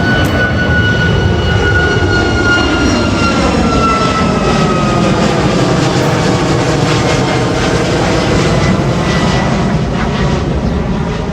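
Boeing 737 MAX's CFM LEAP-1B turbofan engines at takeoff power as the jet passes: a loud, steady rush with a whine that slides slowly down in pitch.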